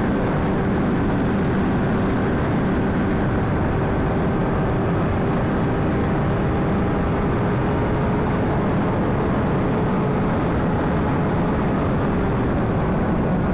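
Steady wind rush over the helmet mic with a 2009 Honda CBR600RR's inline-four engine droning at a constant cruising speed, one even tone held throughout.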